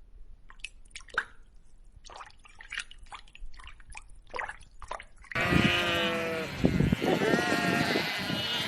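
Scattered faint clicks and taps, then about five seconds in a sheep bleats loudly, a long wavering call followed by more bleating.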